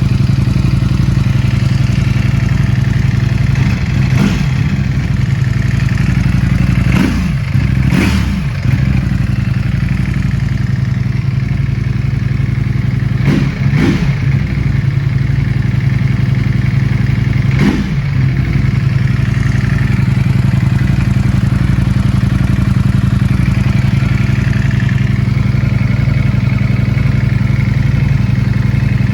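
Ducati Panigale V4 S's 90-degree V4 idling steadily through its exhaust, with several short throttle blips that make the pitch rise and fall, about 4, 7, 8, 13 and 18 seconds in.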